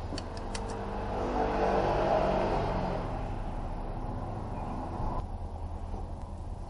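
A car's engine running, its sound swelling to a peak about two seconds in and then fading back.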